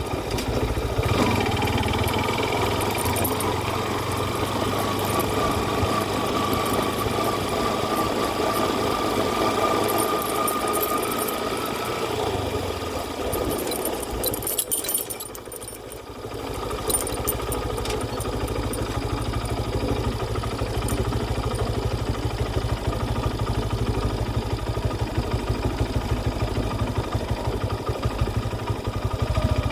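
An engine running, with a faint whine that rises slowly in pitch over the first ten seconds or so. The sound drops away briefly about fifteen seconds in, then comes back with a steady, fast low pulsing.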